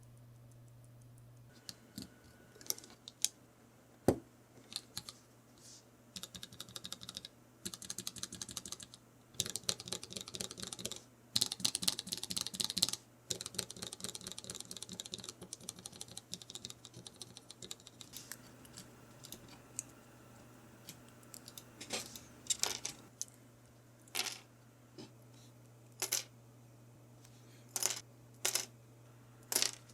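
Typing on a GergoPlex keyboard with lubed Kailh Choc Red low-profile switches and Choc keycaps: scattered single key clicks at first, fast runs of typing in the middle, then slower, spaced keypresses toward the end.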